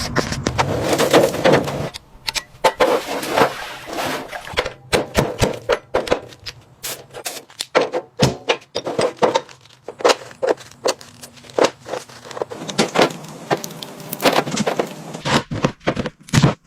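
A run of irregular knocks, clicks and clatters, dense for the first two seconds, then more spaced out and uneven.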